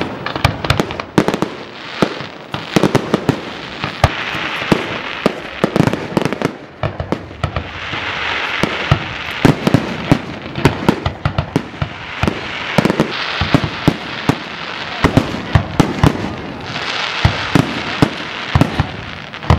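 Fireworks display: aerial shells bursting in quick, overlapping succession, several bangs a second, with spells of dense crackling from the bursting stars in the middle and near the end.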